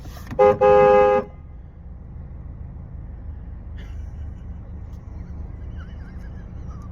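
Car horn honking: a few short toots, then a longer blast of about half a second ending a little over a second in. After that only a steady low rumble remains.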